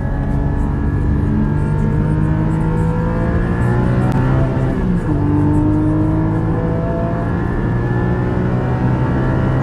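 Motocross bike engine revving under acceleration, its pitch climbing steadily, dropping sharply at a gear change about five seconds in, then climbing again.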